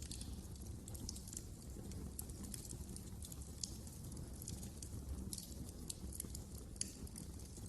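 Wood fire burning in a fireplace: irregular crackling with sharp pops over a steady low rumble of flames, a couple of louder pops about three and a half and seven seconds in.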